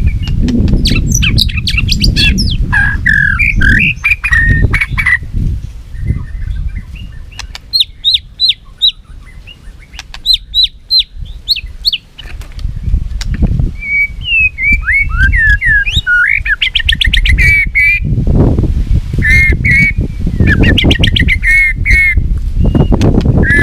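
White-rumped shama singing contest song: varied phrases of whistled slurs, runs of short sharp down-slurred notes, and fast rattling trills, with a low rumbling noise under much of it that eases off in the middle and returns.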